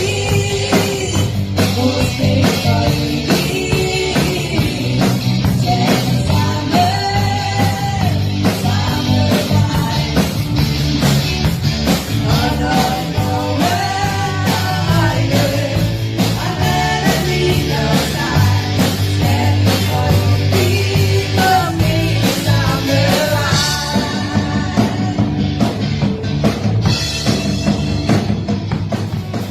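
Live band playing a rock song, with a singer over drums and amplified instruments.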